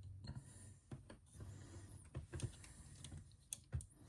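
Faint scattered clicks and knocks of a plastic action figure and its jetpack being handled and posed, a few sharper clicks near the end.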